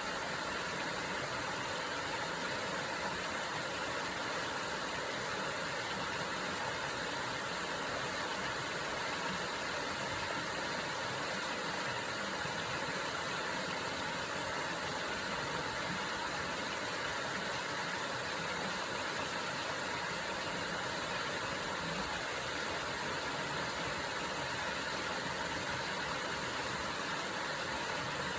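A waterfall running steadily: an even, unbroken rush of falling water.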